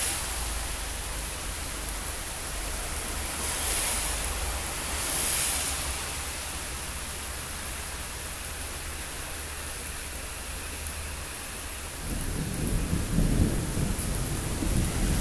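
Thunderstorm: steady hiss of heavy rain with a low rumble of thunder underneath. About twelve seconds in, a louder, uneven low rumble starts.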